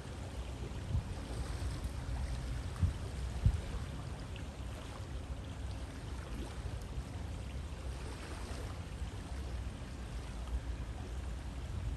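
River water flowing: a steady rushing hiss over a low rumble, with a few brief low thumps in the first few seconds.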